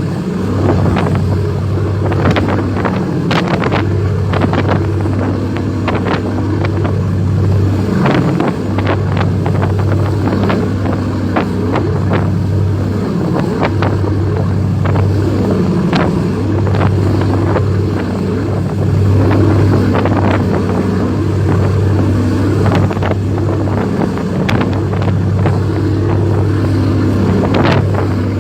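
Boat engine running steadily with a low drone, with scattered knocks over it.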